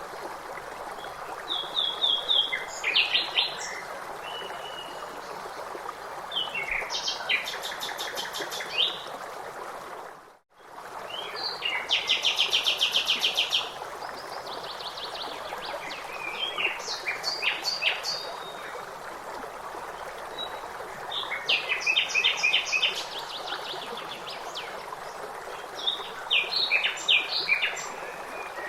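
Songbirds singing in short phrases and rapid trills over steady running water. The sound briefly fades out and back in about ten seconds in.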